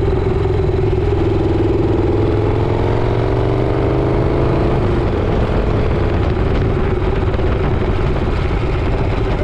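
Motorcycle engine accelerating, its pitch rising for about five seconds, then settling into a steadier, noisier drone.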